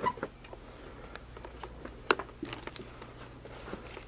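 Small scattered clicks and taps over a low steady room hum, the sharpest click about two seconds in.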